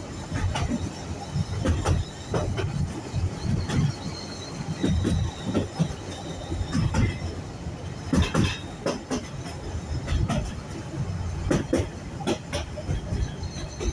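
Narrow-gauge steam train carriages running along the track: a steady rumble with irregular knocks and clatter of the wheels over the rails, and a brief high wheel squeal about eight seconds in.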